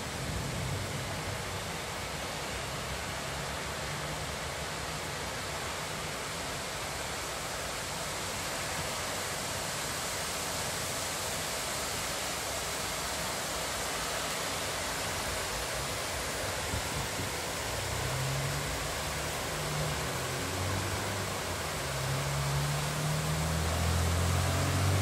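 Steady rain falling, an even hiss. From about two-thirds of the way in, the low rumble of a road vehicle's engine grows louder toward the end.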